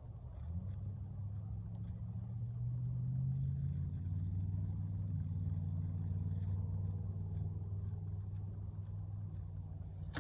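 An engine running with a low, steady hum; its pitch rises a couple of seconds in and then holds steady.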